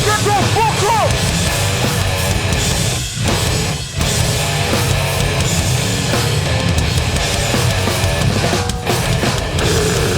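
Live hardcore band playing at full volume: heavily distorted guitars, bass and drums, with short breaks about three and four seconds in and again near the end.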